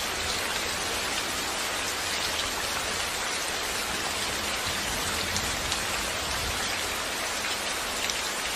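Steady rainfall: an even hiss of rain on a surface with scattered individual drop taps.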